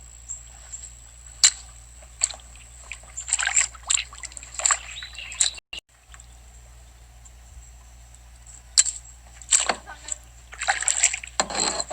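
Kayak paddle strokes splashing and sloshing through the water in two spells, with a couple of sharp knocks.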